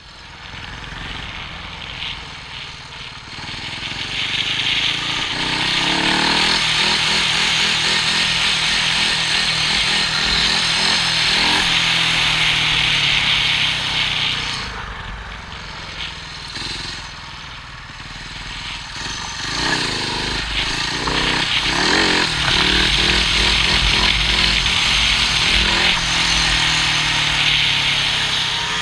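Speedway motorcycle's single-cylinder methanol engine revving hard and easing off as it laps the track, its pitch rising and falling. It eases off about halfway through, then builds again, heard from a camera on the rider's helmet.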